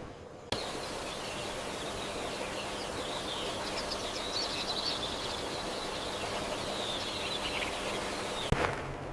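Rainforest ambience: a steady hiss and a high, even drone, with many quick bird chirps over it. It starts abruptly and is cut off near the end.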